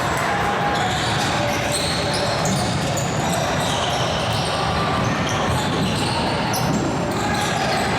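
Basketball game in a gym: a ball bouncing on the hardwood, sneakers squeaking in short high chirps, and voices of players and spectators echoing in the hall.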